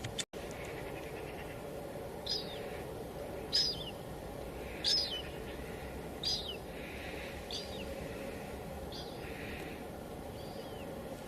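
Light rain hissing steadily, with a bird repeating a short, high, downward-sliding chirp every second or so, loudest in the middle. The sound cuts out for an instant just after the start.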